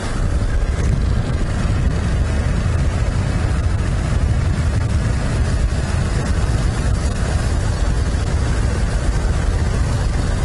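Steady rumble and wind rush of a vehicle on the move, with wind buffeting the microphone.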